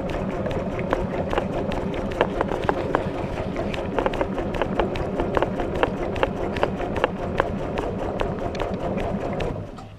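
Water churning and sloshing inside a Maytag washing machine tub, heard from a camera on the tub wall, with many sharp clicks and knocks throughout. The churning dies away quickly just before the end.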